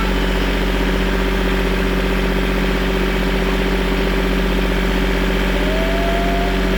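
A motor vehicle's engine running steadily at an even pitch, with no revving.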